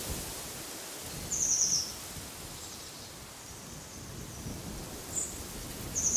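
A small bird's short, high, rapid trill about a second and a half in, a single high chirp near the end, and the trill again right at the end. Under it, a steady rush of wind in the trees with low rumbling gusts.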